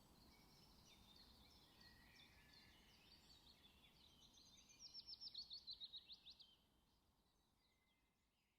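Songbirds chirping faintly over a low ambient hiss, with a louder rapid trill of about a dozen falling notes around the middle. The sound then fades away gradually.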